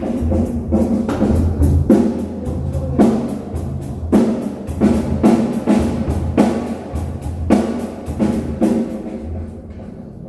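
Music with a drum kit playing: a dense run of sharp drum and cymbal hits over a steady low bass.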